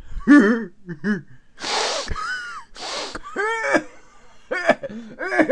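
A person sniffing hard twice, two long noisy sniffs about a second apart, mixed with short wordless vocal noises.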